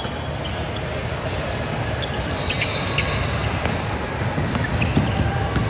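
Basketball being dribbled on a gym floor, with short sharp bounces over the steady din of the gym.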